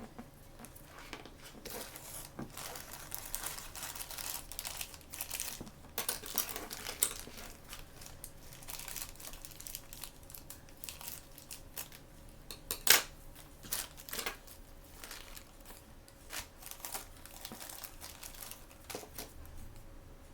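Toy blind-bag packaging being handled and torn open: irregular crinkling and crackling with scattered clicks, and one sharp snap about two-thirds of the way through.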